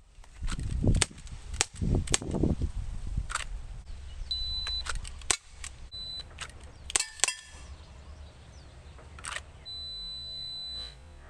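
Umarex GLOCK 19X CO2 BB pistol firing a string of sharp, irregularly spaced shots, about a dozen, with a quick double shot about seven seconds in.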